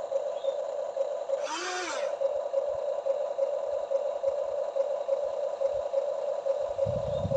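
Small electric motor of a Huina RC excavator running with a steady whine that pulses evenly. A brief rising-and-falling chirp about a second and a half in, and a low rumble of knocks near the end.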